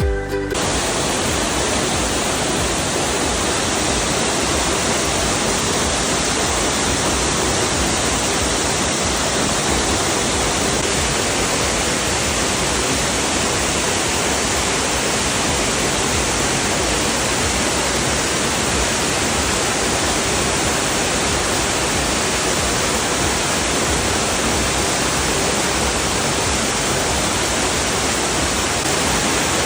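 Steady roar of a large cascading waterfall, Ryūka Falls' three-tiered 130 m drop, a dense, unbroken rush of falling water.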